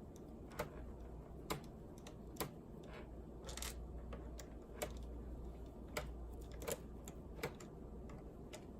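Small, sharp clicks and taps, roughly once a second and irregular, from a screwdriver and loose plastic parts of a laptop case being handled while its screws are taken out.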